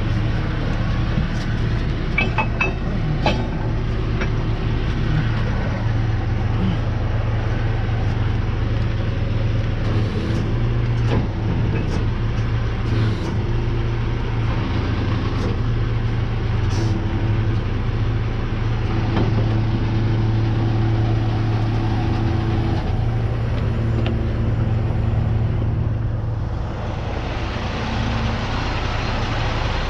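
Truck engine idling steadily with a constant low hum, with occasional short clicks and knocks over it.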